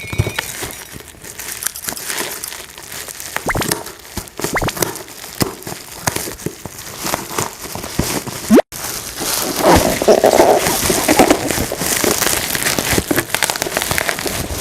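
Plastic packaging crinkling and toy parts clicking as toys are handled and unwrapped, with a brief gap about two-thirds through, after which the handling gets louder and busier.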